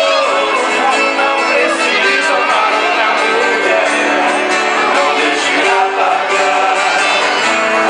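Live sertanejo band music: strummed acoustic guitar with singing.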